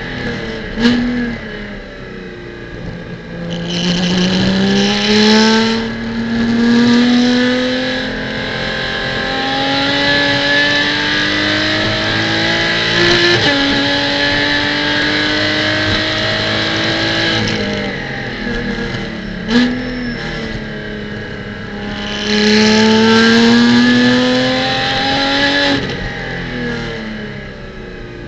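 Porsche Cayman GT4 Clubsport's flat-six engine heard from the cockpit, revving up through the gears with a drop in pitch at each upshift. About two-thirds of the way through the revs fall away under braking with a quick blip on a downshift, then the engine pulls hard and climbs again.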